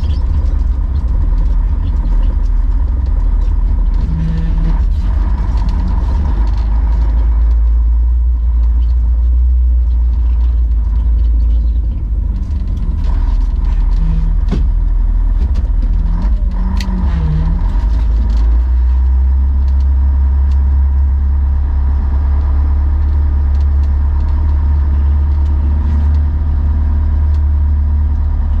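Tatra Terrno1 6x6 tipper truck's diesel engine running with a steady heavy rumble. Its pitch rises and falls briefly a few times in the middle, and there are a couple of sharp knocks.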